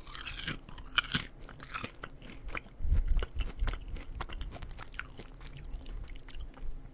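Close-miked eating sounds: a person biting and chewing food, with many short crunches and mouth clicks and a few deeper thuds about three seconds in.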